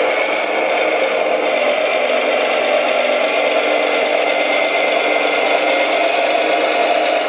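Steady whirring and rattling of a radio-controlled model construction machine's motor and gears running continuously.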